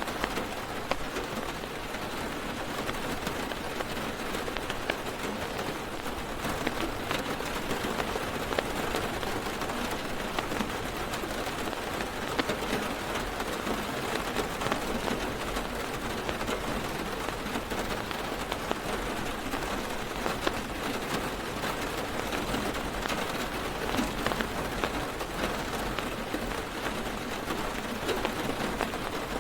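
Steady heavy rain drumming on a car's roof and windows, heard from inside the car, a dense hiss with many small drop taps throughout.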